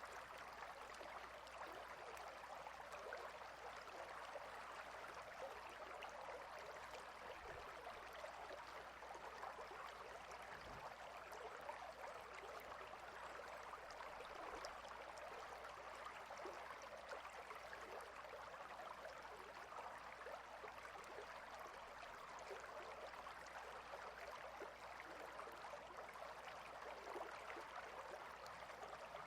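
River water flowing between rocks: a soft, steady rush without pauses or changes.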